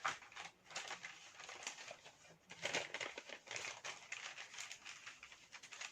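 A square sheet of paper being folded and creased by hand, with irregular rustling and crinkling.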